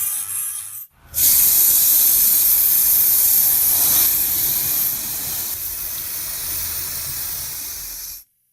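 A brief moment of rubbing, then after a short break about a second in, a steady hiss of pressurised spray lasting about seven seconds. It eases a little past the middle and cuts off sharply near the end.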